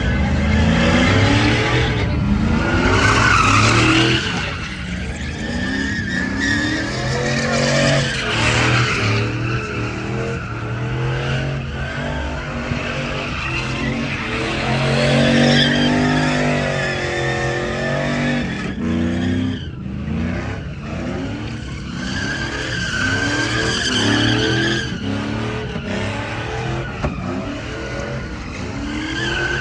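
Truck engines revving over and over, their pitch rising and falling, with tyres squealing.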